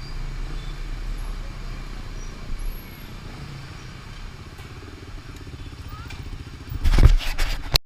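Motorbike engine running at a steady low rumble, then a brief cluster of loud knocks and rattles about seven seconds in, after which the sound cuts off suddenly.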